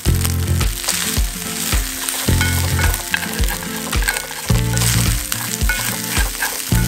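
Food sizzling as it fries in a pan, with a utensil stirring and ticking against it, over background music with a steady low beat.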